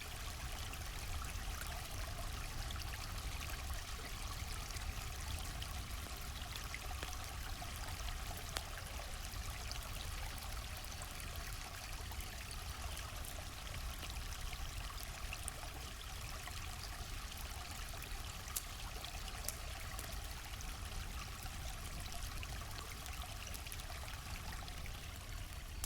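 A river flowing steadily, with scattered faint crackles from a campfire.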